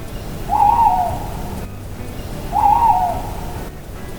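An owl hooting twice, short calls about two seconds apart, over steady low background noise.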